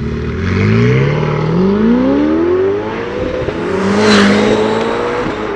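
Ferrari 488 Pista's twin-turbo V8 running through an IPE catback exhaust with its valves fixed open, accelerating with the engine pitch climbing. About four seconds in there is a short burst of noise, after which the pitch levels off and drops.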